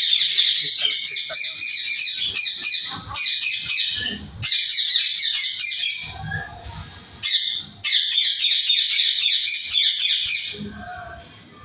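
A flock of caged small parrots chirping and chattering, many rapid high notes overlapping in long bursts, with a short lull about six to eight seconds in and a fade near the end.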